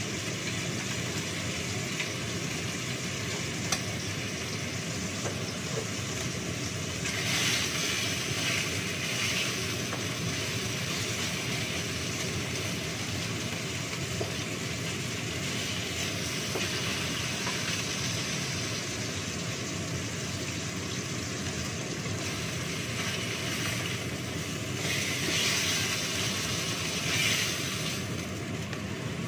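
Pork steak frying in a pan of hot oil: a steady sizzle that swells louder twice, about seven seconds in and again near the end, over a steady low hum.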